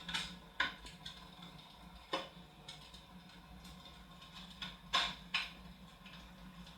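A handful of short, sharp clicks or taps, irregularly spaced, two of them close together near the end, over a faint steady low hum.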